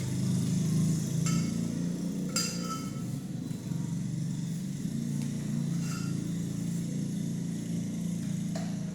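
An engine running steadily at a low pitch, with a few light metallic clinks about a second in, about two and a half seconds in, near six seconds and near the end.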